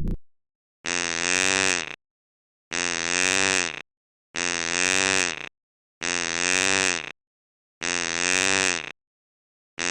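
An animal call, a buzzy pitched note about a second long, played five times over in identical copies with silence between.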